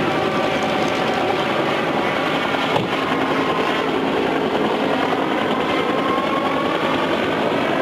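Helicopter engine and rotor running steadily, with a high whine that drifts slightly in pitch.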